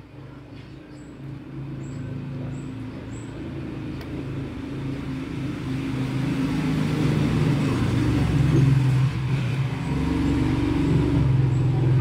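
A motor vehicle's engine running, a steady low hum that grows steadily louder over several seconds.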